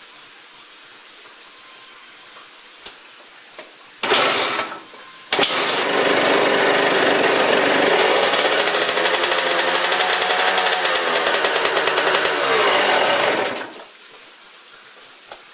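A 2004 Suzuki RM125's two-stroke single-cylinder engine, freshly rebuilt top end, fires briefly about four seconds in, then catches about a second later and runs for about eight seconds with some rises and falls in revs. It cuts off abruptly near the end.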